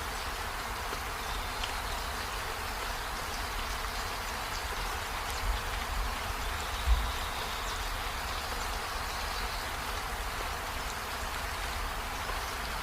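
Steady rain falling, an even hiss, with a brief low thump about seven seconds in.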